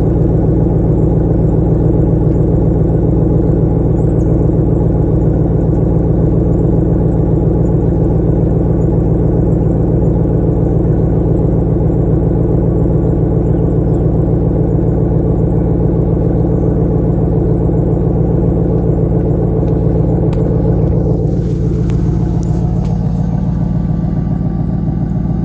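1999 Chevrolet Camaro Z28's 5.7-litre LS1 V8 idling steadily through a Spintech muffler, still cold shortly after a cold start. About 21 seconds in, its note dips a little lower and gets slightly quieter.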